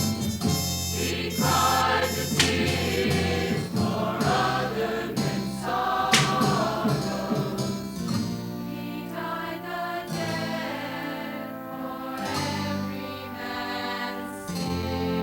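Choir singing a gospel song with accompaniment, easing about halfway through into softer held chords.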